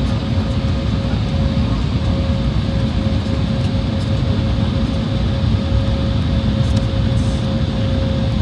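Jet airliner cabin noise: a steady, loud, deep rumble of the engines and air system, with a constant mid-pitched whine over it.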